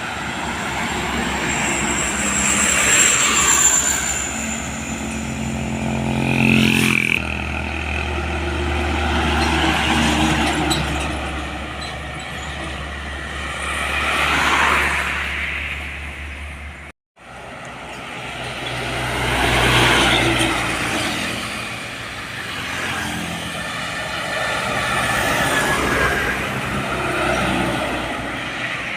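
Road traffic: trucks and cars passing one after another, each engine and tyre noise swelling and fading over a few seconds.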